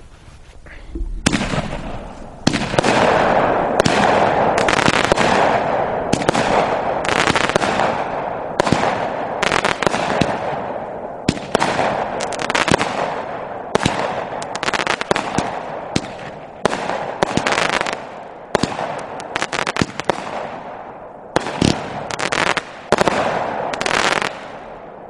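A Mad Ox 'Kraken' 200-gram firework cake firing its 20 shots, one roughly every second from about a second in until near the end. Each is a sharp launch bang followed by a break overhead: mines breaking into star bursts.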